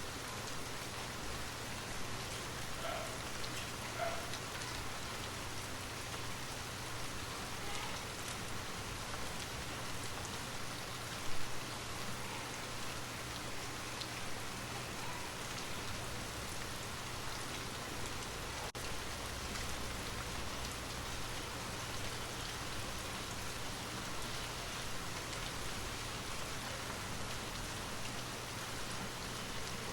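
Steady rain falling, an even patter with no voice over it. One brief louder tap stands out about eleven seconds in.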